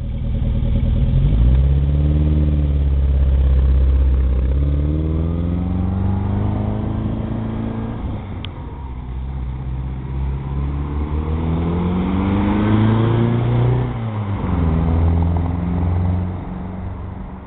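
Austin Mini's 1275cc four-cylinder A-series engine through a stage 1 exhaust, revving up and down several times, with a sharp drop in revs about fourteen seconds in.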